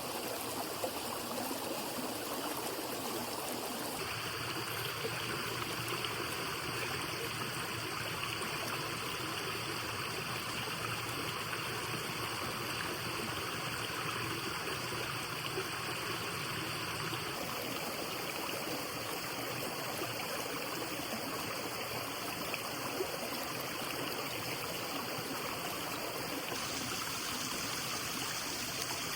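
Steady rush of a flowing stream, an even wash of running water whose tone changes abruptly three times.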